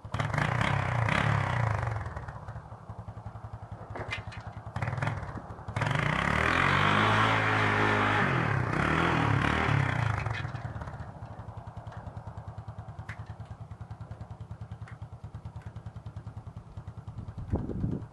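Honda TRX200SX ATV's single-cylinder four-stroke engine revving in several bursts, the longest from about six to ten seconds in, then settling to a steady idle. The engine has just been cold-started and is warming up.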